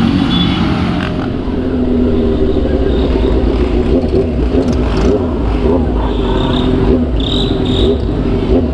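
Motorcycle engine running under way, its pitch wavering as the throttle changes, with wind rush and low rumble on the camera microphone.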